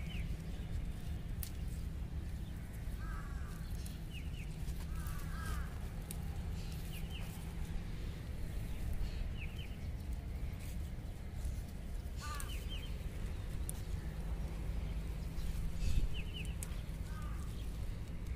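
Birds calling: short high double chirps repeating every second or so, with a few lower, harsher calls, over a steady low rumble.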